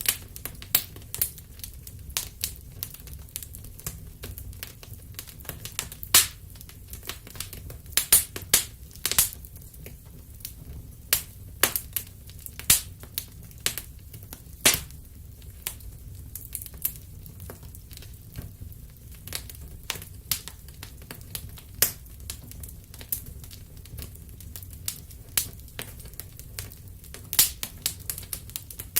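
Wood fire crackling in a fireplace: irregular sharp pops and snaps over a low steady rumble of the burning logs.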